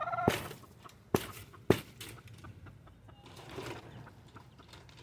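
Chickens clucking quietly, with a brief rustle near the start and two sharp knocks about half a second apart a second in, the loudest sounds.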